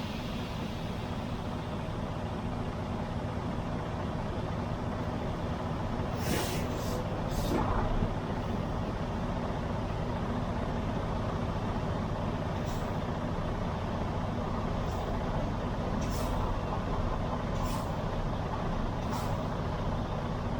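Diesel truck engine idling steadily, with short sharp air hisses or clicks every second or two from about six seconds in.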